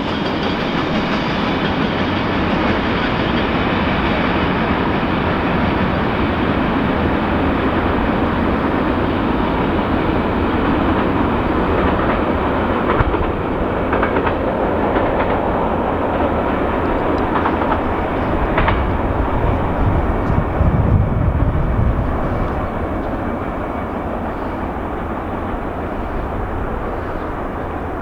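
Freight train cars rolling past at close range: a steady rumble of wheels on rail, with a few sharp clicks from the wheels over rail joints. The sound swells briefly about three quarters of the way through, then eases off.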